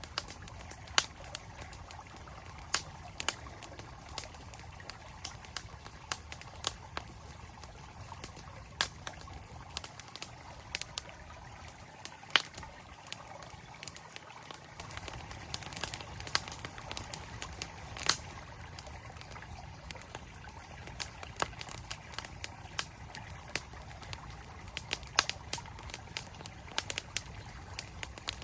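Campfire crackling, with many sharp irregular pops, over the steady rush of a flowing mountain stream.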